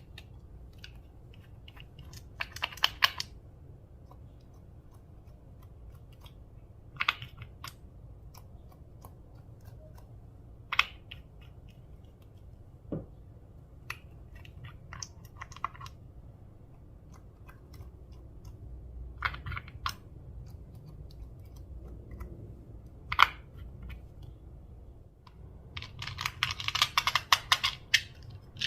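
Slime being pressed and worked by hand, giving scattered bursts of small clicking, crackling pops a few seconds apart, with a denser run of crackles near the end.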